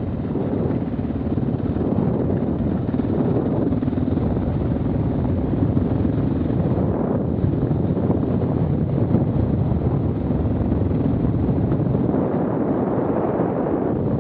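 KTM 690 Enduro R's single-cylinder engine running as the bike is ridden along a dirt trail, mixed with wind noise on the microphone.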